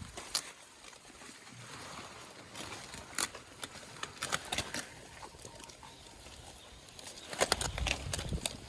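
Goats feeding on leafy tree fodder: leaves rustling with irregular crisp snaps and clicks, louder and heavier for a moment near the end.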